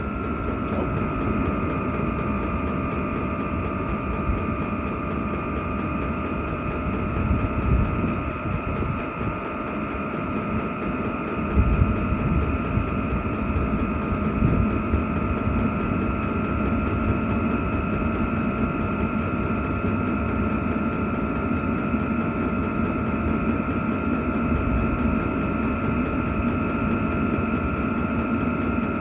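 VEVOR 8 kW diesel air heater running steadily near full output: a constant fan whine over the low rumble of the burner and blower.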